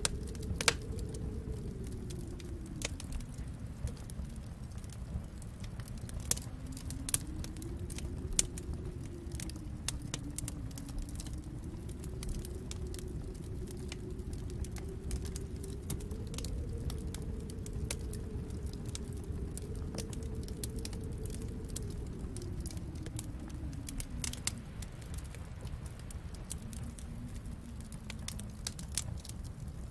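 Wood fire in a fireplace crackling, with scattered sharp pops over a steady low rumble. Behind it, a low wind howl slowly rises and falls in pitch.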